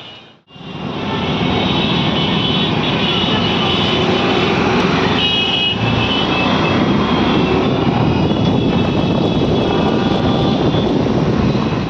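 Steady loud rushing noise of a moving passenger train, starting after a short break about half a second in.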